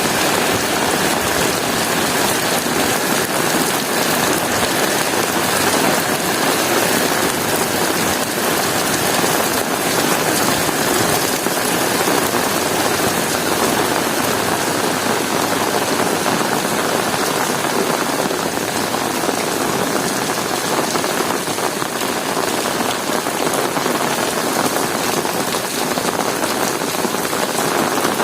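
Heavy rain falling steadily, a dense even hiss of drops on hard surfaces with no single impact standing out.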